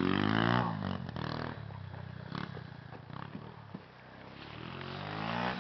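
Pit bike engine running as the bike moves away: its drone drops in pitch and fades over the first second or two. It grows louder and rises again near the end as the bike comes back.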